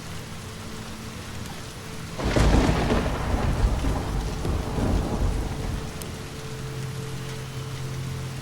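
Steady rain with a clap of thunder about two seconds in that rumbles and fades away over about three seconds.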